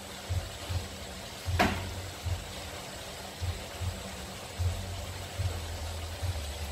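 Frog meat and ginger sizzling in a wok on an induction cooker, a steady hiss over a constant electric hum. Short low thuds come every half second or so, and there is one sharp click about one and a half seconds in.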